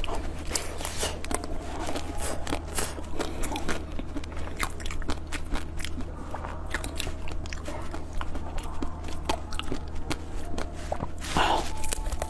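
A person biting and chewing crunchy food up close, with many sharp crunches all through, over a steady low hum.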